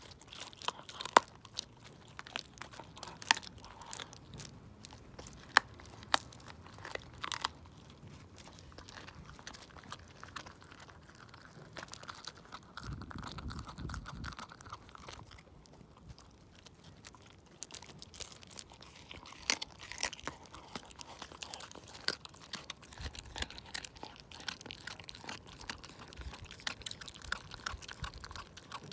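Shiba Inu chewing raw chicken wing tips, the bones cracking in sharp, loud crunches during the first several seconds, then softer, quicker crunching and wet chewing.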